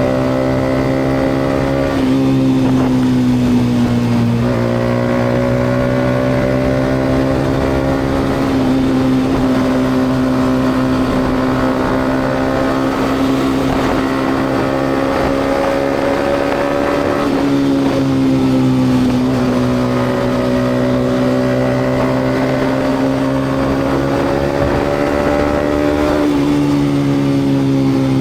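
Yamaha MT-125's single-cylinder four-stroke engine, breathing through a GPR aftermarket exhaust, running at a steady pitch while riding, with a few brief dips and recoveries in revs.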